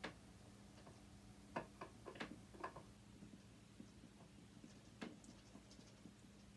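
Faint clicks and light taps of a screwdriver working at a screw in a sewing machine: a sharp click at the start, a cluster of small ticks around two seconds in, and another click about five seconds in, over a low steady hum.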